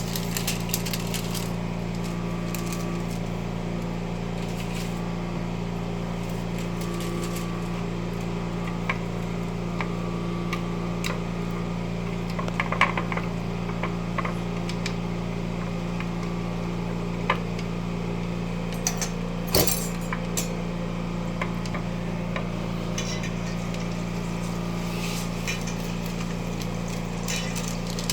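A steady low hum runs throughout, with scattered light clicks and clinks of kitchen utensils and containers being handled, a few louder knocks near the middle.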